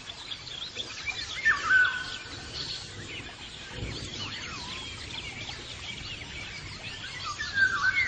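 Birdsong ambience: several birds chirping and warbling over a steady outdoor background hiss, with a louder whistled call about a second and a half in and another near the end.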